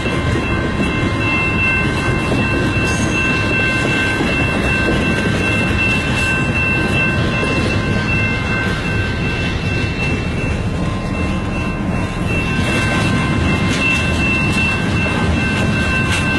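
Canadian National mixed freight train rolling past at medium speed, a steady loud rumble of wheels and cars on the rails. The grade crossing's warning bell rings steadily above it.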